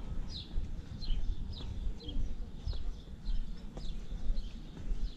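Small birds chirping over and over, short falling chirps about two a second, over a steady low rumble.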